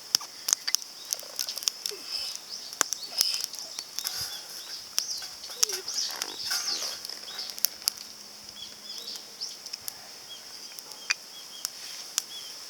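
Small wood-and-pine-cone fire crackling in a compact titanium fire grill, with irregular sharp pops over a steady high hiss.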